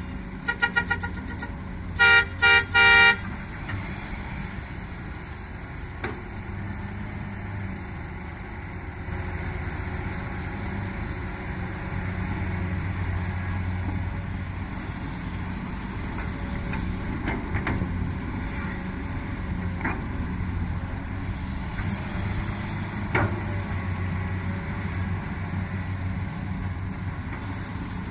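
Three short horn toots from a vehicle about two to three seconds in. Then the diesel engine of a Komatsu PC200 excavator runs steadily, swelling and easing as it digs and loads soil.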